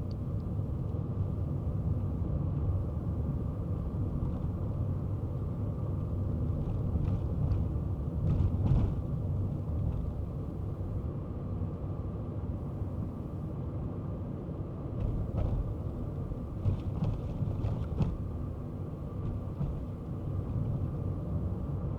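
Kei car driving: a steady low engine and road rumble that swells briefly near the middle, with a few short knocks in the later part.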